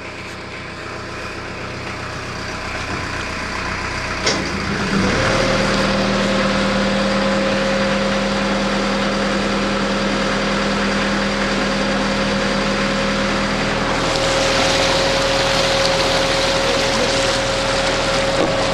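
Canal boat's diesel engine running as the boat gets under way, growing louder over the first few seconds and then settling into a steady drone. There is a short click about four seconds in, and a rushing hiss joins for a few seconds near the end.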